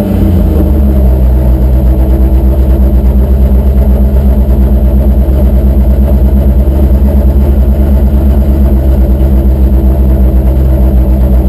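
Pulling truck's engine running loud at a steady speed, its note holding even with a regular pulse.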